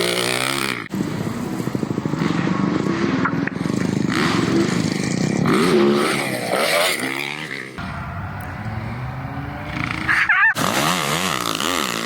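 Motocross bike's single-cylinder four-stroke engine, a Yamaha YZ450F, revving hard and backing off again and again as it is ridden around the track. There are brief breaks in the sound about a second in and near the end.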